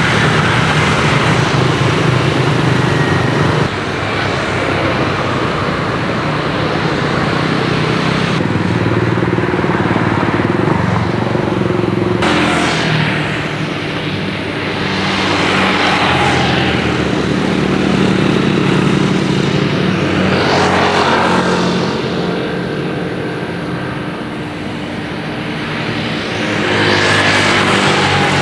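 Motor vehicles passing by one after another, each swelling and fading, over a steady engine hum.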